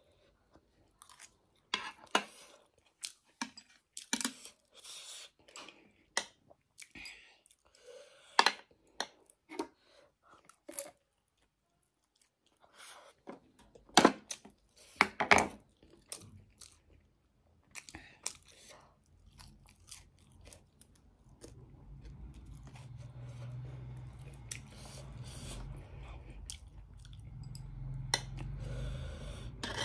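A person chewing and crunching food in irregular bites, with sharp crunches and wet mouth clicks. There is a short pause a little before halfway. A steady low hum comes in about two-thirds of the way through.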